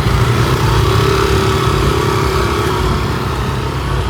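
A motor vehicle's engine running close by, a steady hum over a heavy low rumble, easing slightly near the end.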